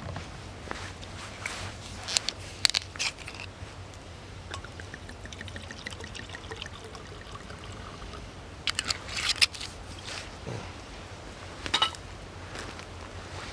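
Liquid poured into a cup for a few seconds in the middle, its pitch slowly rising as the cup fills, between scattered clicks and knocks of gear being handled.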